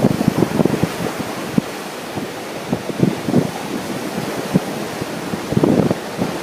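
Ocean surf washing in steadily while strong wind buffets the microphone in gusts, with heavier gusts near the start and about five and a half seconds in.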